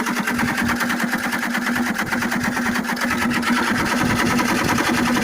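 Mini excavator's diesel engine running steadily with a rapid, even clatter.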